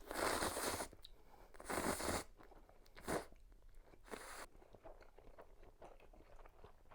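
Close-miked crunching of a crisp breaded, deep-fried pork cutlet: four loud crunchy bites in the first four and a half seconds, then softer crackling chewing.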